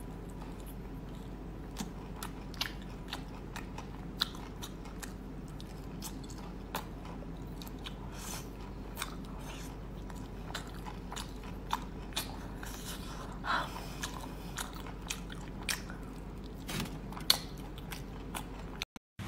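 Close-up eating sounds of spicy braised octopus tentacles being bitten and chewed: scattered short clicks over a steady low hum.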